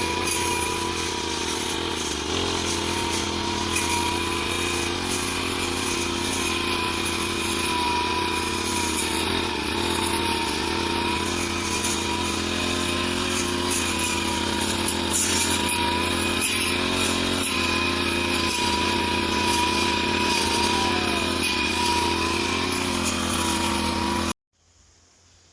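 Small engine of a grass-cutting machine running steadily at working speed, then stopping abruptly near the end.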